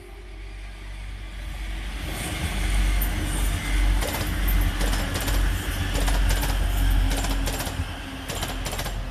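Diesel multiple-unit passenger train running past on the main line: a low rumble that builds over the first two seconds, then a rapid, uneven run of clicks as its wheels cross the rail joints.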